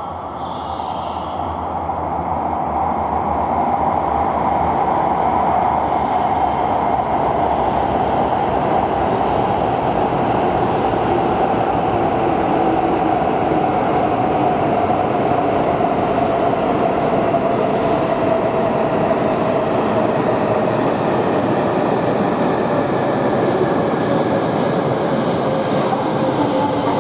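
Shinkansen train pulling into the platform. Its running noise builds over the first few seconds and then holds, with a whine that slowly drops in pitch as the train slows.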